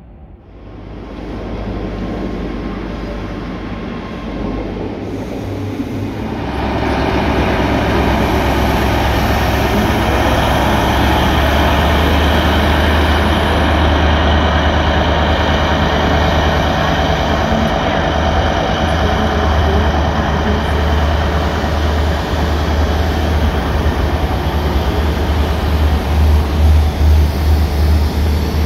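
Train in a railway station, its rumble building over the first few seconds, then a loud steady drone with a strong low hum.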